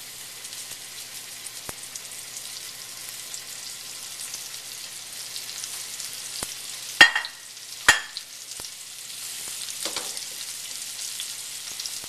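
Sea scallops sizzling in hot oil in a stainless steel sauté pan over a high gas flame, the sizzle slowly growing louder as more go in. Two sharp ringing clinks about seven and eight seconds in are the loudest sounds, with a few fainter clicks between.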